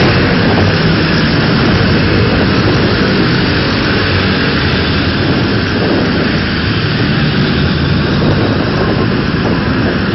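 A convoy of motorcycles riding past, many engines running together in a loud, steady blend.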